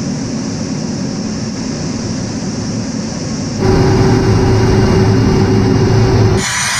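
Loud, steady military aircraft engine noise cut from clip to clip. About three and a half seconds in it jumps louder with a deeper rumble and a steady hum, then cuts away again near the end.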